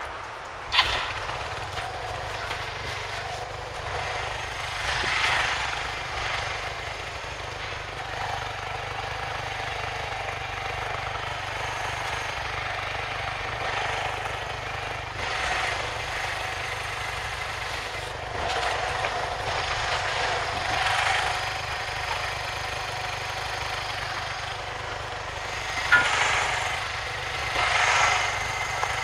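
SYM Wolf motorcycle's single-cylinder four-stroke engine running, its revs rising and falling several times. There is a sharp click just after the start and another about 26 seconds in.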